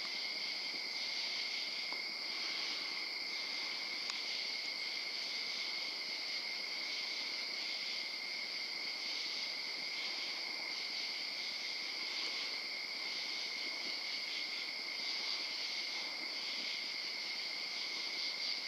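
Chorus of crickets and other night insects calling steadily, a continuous high-pitched trill with a faint pulse.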